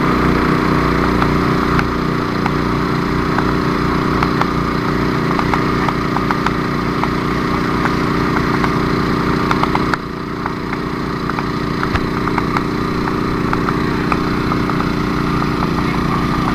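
An engine running steadily at a constant speed, with faint ticking over it; its sound drops slightly about ten seconds in.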